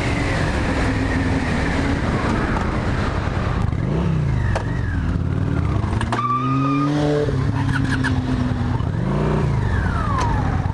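Motorcycle engine accelerating through the gears, its pitch climbing and dropping several times, under a steady rush of wind on the rider's microphone.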